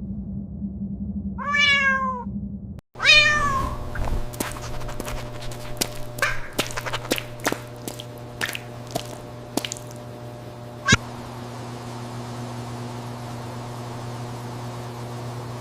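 A cat meows twice, two falling calls about one and a half and three seconds in, the second louder. A run of light clicks and taps follows, over a steady low hum.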